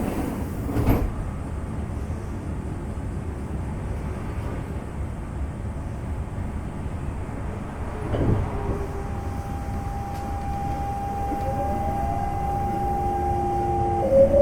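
Inside a Semboku Rapid Railway 5000 series car: the doors thud shut about a second in over a steady hum of air conditioning and running gear. A second knock comes about eight seconds in. Then the Hitachi GTO VVVF inverter starts a steady whine, and more whining tones begin to rise in pitch near the end as the train starts to pull away.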